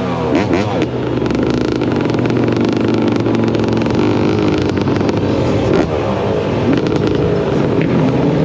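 Motocross bike engine revving, its pitch sweeping up and down around the start, then running on hard and steady.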